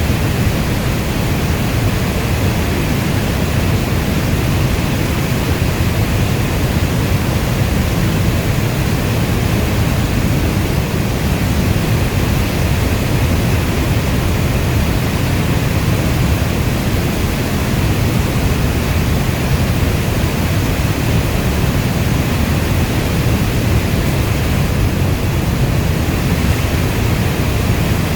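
Heavy rainfall as a steady, even, deep rushing hiss.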